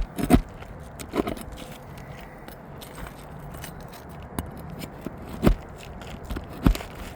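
Hand tools scraping and knocking on asphalt 3-tab roof shingles as a nail is worked loose, with a few sharp knocks spread out over quieter scraping.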